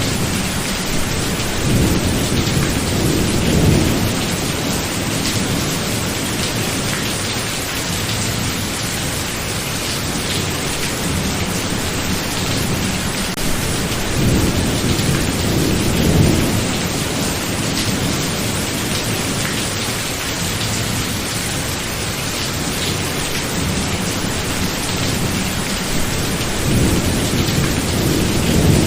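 Steady heavy rain with thunder rolling in low rumbles three times, about twelve seconds apart.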